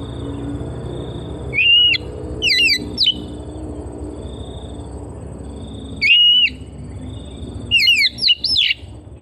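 Oriental magpie-robin (kacer) singing: four loud whistled phrases of quick sliding notes, the first and third single swooping whistles, the second and fourth fast runs of three or four notes. A steady low hum and a faint, soft note repeating about once a second lie underneath.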